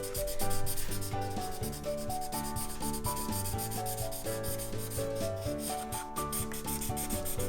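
A drawing tool scribbled quickly back and forth on paper, colouring in a shape: a dense run of fast scratchy rubbing strokes. A simple melody plays softly underneath.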